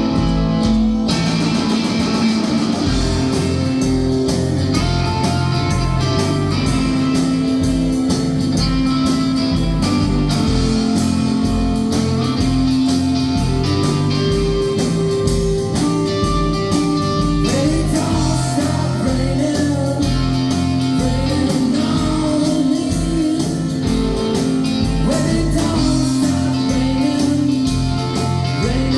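Rock band playing live: electric guitar, bass and drums with a steady beat, and a singing voice coming in about halfway through.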